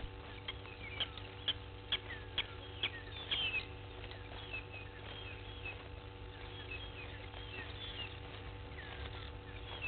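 Small birds chirping and twittering, with a quick series of sharp chip notes in the first three seconds. Under them runs a steady low electrical hum.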